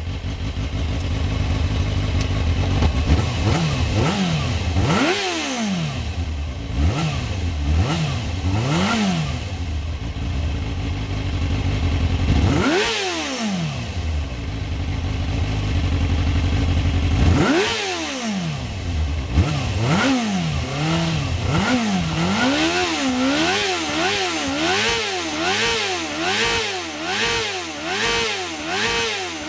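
Suzuki GSX-R inline-four motorcycle engine being revved hard, its note climbing and dropping in separate sweeps, then blipped quickly and repeatedly, about once a second, near the end.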